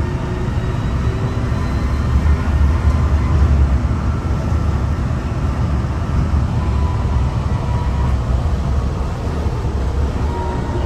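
Gothenburg tram running: a steady low rumble with faint whines that slide gently up and down in pitch.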